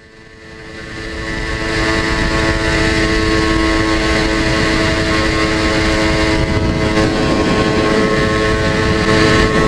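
Air-cooled Yamaha TZR250 (1KT) two-stroke engine running at steady revs. It fades in over about two seconds and then holds one even pitch.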